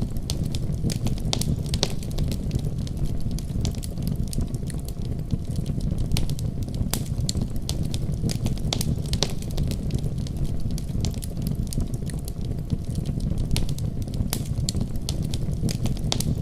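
Wood fire crackling in a fireplace, with frequent irregular sharp pops, over a steady deep rumble of a snowstorm.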